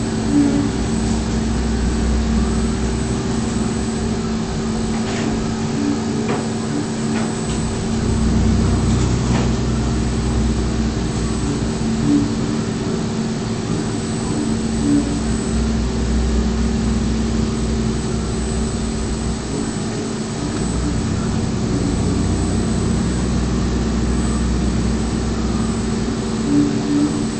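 DMU 65 five-axis CNC machining centre milling a flange: a steady machine hum with held tones and a low rumble that drops away briefly now and then, plus a few faint clicks.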